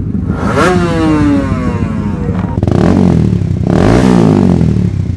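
Honda CBR150R single-cylinder engine revved through its exhaust: a sharp rev about half a second in that falls away slowly, then two more quick revs, settling to an uneven idle near the end.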